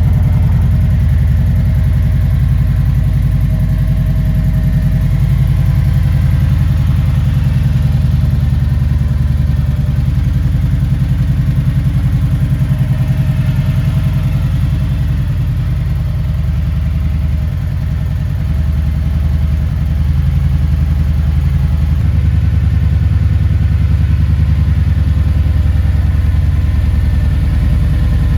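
Kawasaki Vulcan 1700 Nomad's V-twin engine idling steadily just after being started, with an even low pulse. The level dips briefly a little past halfway.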